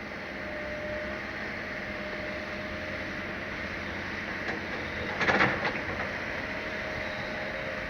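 Excavator diesel engine and hydraulics running steadily, with a brief louder clatter about five seconds in.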